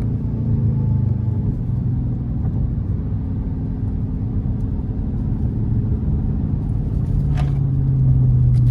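Car engine and road noise heard from inside the cabin while driving: a steady low drone that swells a little near the end as the engine pulls harder.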